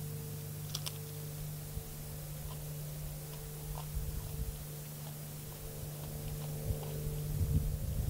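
Steady drone of a Mooney 201 single-engine light aircraft passing over, holding one even pitch, with a few soft clicks and thumps close by.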